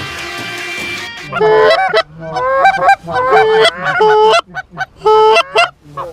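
Goose honks, loud and repeated about twice a second, each breaking from a low note up to a higher held note; they start about a second in as background music fades out.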